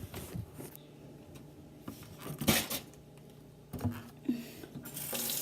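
A single sharp knock about halfway through, then a kitchen sink tap turned on near the end, water running from it.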